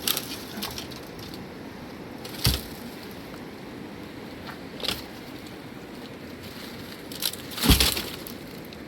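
A handful of sharp cracks and heavy knocks a couple of seconds apart, the loudest one near the end, over a steady rushing background.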